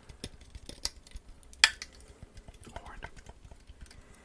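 Sharp tapping and handling sounds on a fake horn, a few scattered taps with the loudest about one and a half seconds in.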